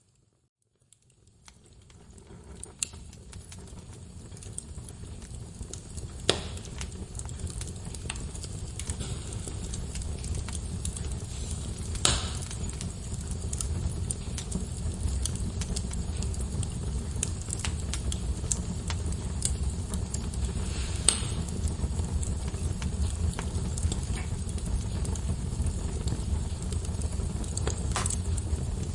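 Wood logs burning in a fireplace: a steady low rumble of flame with fine crackling and a few sharp pops, four of them loud. It fades in from near silence over the first few seconds.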